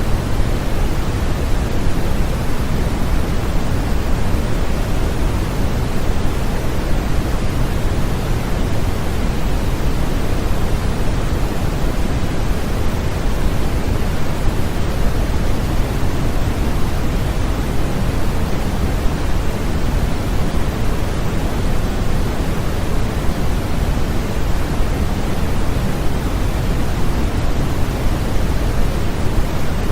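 Continuous generated noise used as a baby sleep sound: a steady, unchanging hiss that is heavier in the bass than in the treble, closer to pink noise than to flat white noise.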